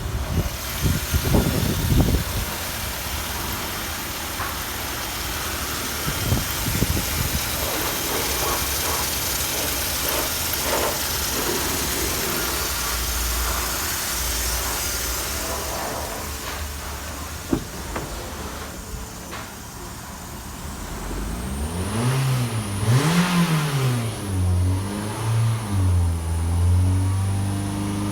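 Ford Focus 2.0 four-cylinder engine running warm on a hot test, with a few knocks at the start. In the last quarter it is revved up and down several times, then held at a raised speed. It runs smoothly, as a sound, quiet engine would.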